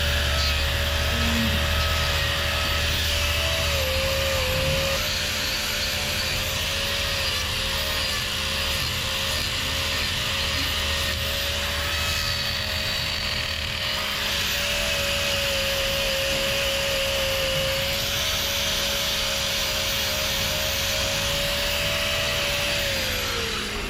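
Angle grinder running steadily as it trims a cow's hoof, its pitch sagging slightly at times. Near the end it is switched off and winds down in a falling whine.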